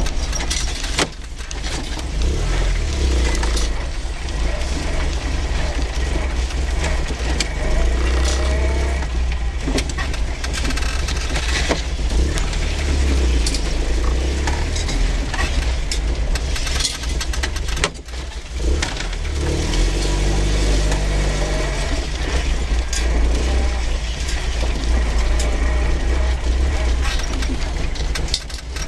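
Moskvich 2901 on the move: the engine rises and falls in pitch through the gears over a heavy rumble, with repeated squeaks, rattles and knocks from the body and suspension as it bounces over the road.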